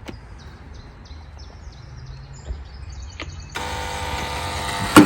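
Electric door-entry buzzer sounding for about a second and a half, the door lock being released from inside, ending in a click. Before it comes a run of faint, short, high chirps.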